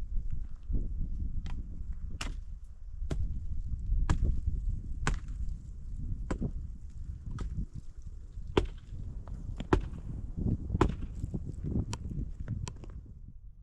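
Firewood being chopped with an axe: sharp blows about once a second, a dozen or so, over a low rumble.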